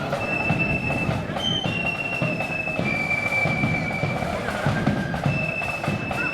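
Marching flute band playing: a shrill melody of long held flute notes over a steady beat of bass and side drums.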